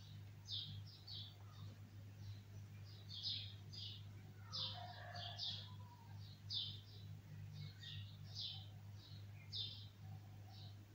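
Caged birds in an aviary giving short, high chirps, roughly two a second and unevenly spaced, over a steady low electrical hum.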